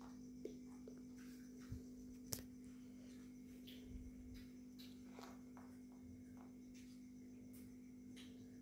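Near silence: a steady low hum, with a few faint short parrot chirps and a sharp click a little over two seconds in.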